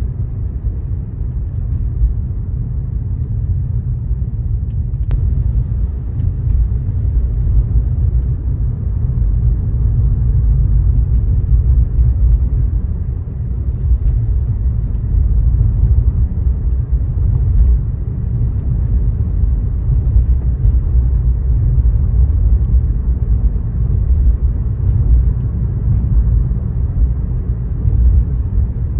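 A car driving at a steady pace, giving a low, steady rumble of tyres and engine on the road.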